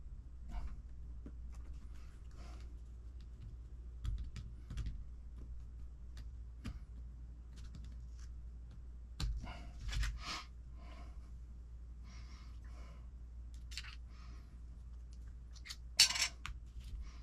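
Small parts and hand tools clicking and tapping on a workbench during hand assembly of an RC truck's transmission, with scattered light clicks and the sharpest click about sixteen seconds in.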